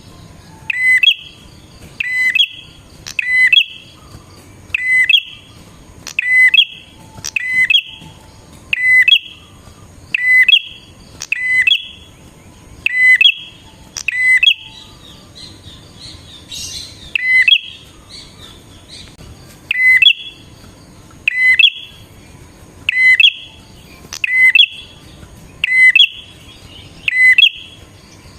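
Prenjak (prinia) calling: a short, sharp chirp repeated about every second and a half, with one brief pause midway.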